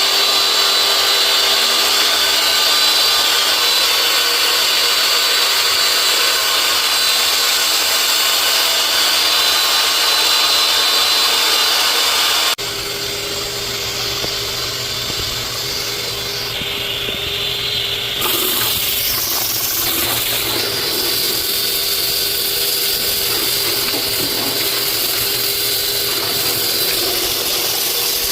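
Steady whirring of a small motor-driven machine, like a power tool running, changing abruptly to a lower, rougher running sound about twelve seconds in.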